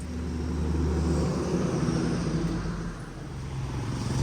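Motor vehicle engine running, its pitch rising and falling as it speeds up, eases off near three seconds in, and picks up again near the end.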